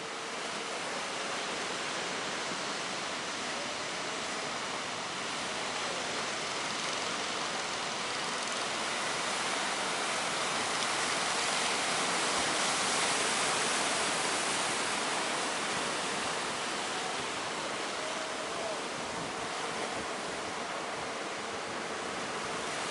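Sea surf: a steady rush of breaking waves that swells gently around the middle and eases off again.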